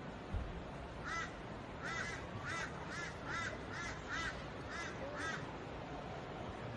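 A bird calling: a run of about nine short, arched calls, roughly two a second, starting about a second in, over a steady background hiss.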